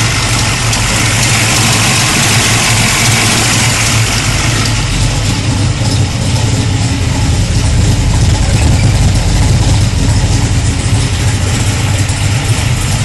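Freshly built twin-turbo Chev engine in a Ford Capri idling steadily on its first run after two years. A high hiss sits over it for the first four seconds or so, then fades.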